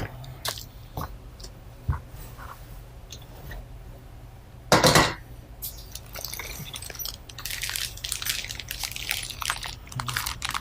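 Packaging being handled: plastic and paper crinkling with small clicks of parts, a louder crinkle about five seconds in, and busier rustling near the end.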